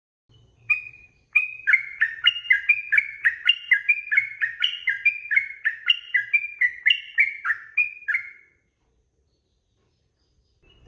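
Yellow-vented bulbul (trucukan) singing: one short note, then a long, fast run of clear, bubbling notes that bounce up and down at about four notes a second for some seven seconds before stopping.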